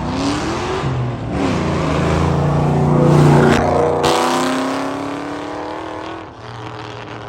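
Dodge Hellcat's supercharged V8 revving hard with its supercharger whine. The pitch climbs in a short rise and then a longer one, falls away about four seconds in, and fades.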